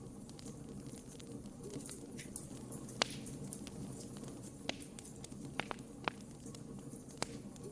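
Wood fire burning in a fireplace: a low steady rumble with irregular crackles and several sharper pops, the loudest about three seconds in.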